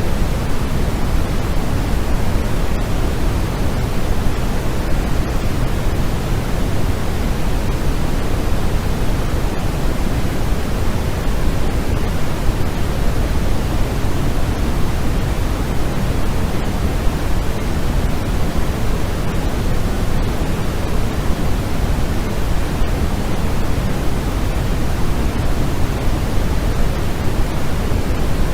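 Steady, unchanging white noise for sleep: an even hiss heavier in the low end than the top, with no rhythm or events.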